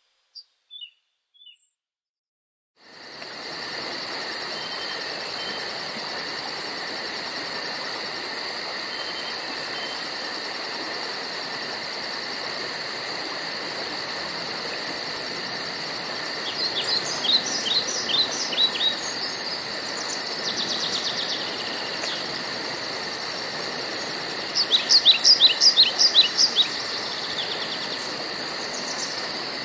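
Forest ambience: a few isolated bird chirps over silence, then about three seconds in a steady insect drone with fast high-pitched pulsing comes in over a soft hiss. Over it a songbird sings quick runs of short falling notes, twice, louder than the drone.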